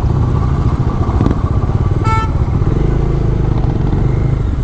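Bajaj Dominar's single-cylinder engine running steadily as the motorcycle rolls along at low speed, with a short horn beep about two seconds in.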